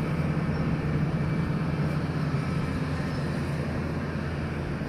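Diesel engine of a heavy earthmoving machine (excavator or bulldozer) running steadily with a low, even drone.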